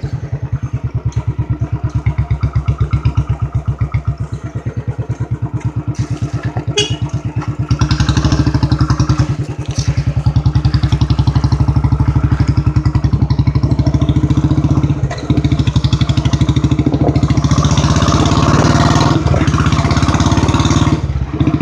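Royal Enfield Bullet's single-cylinder engine pulling at low speed over a rough dirt trail, its exhaust beating in a steady, rapid pulse. It gets louder about eight seconds in as the throttle opens, dipping briefly twice.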